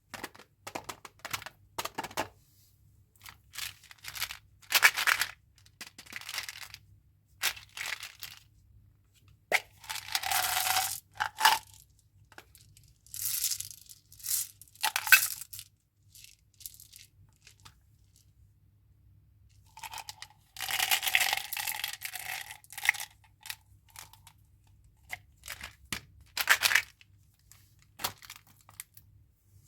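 Chewing gum packaging being opened by hand: wrappers crinkling and tearing in short bursts, with small clicks and taps as pieces are handled, and quiet pauses between.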